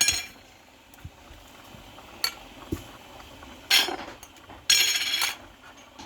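A metal utensil clinking and scraping against a metal pot of melting candle wax: a few separate ringing clinks, then a longer ringing scrape about five seconds in.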